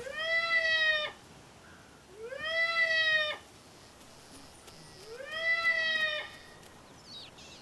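Recorded distress call of a fur seal pup played back over a loudspeaker: three bleating cries about a second long, each rising sharply in pitch and then slowly sliding down, with gaps of about a second between them.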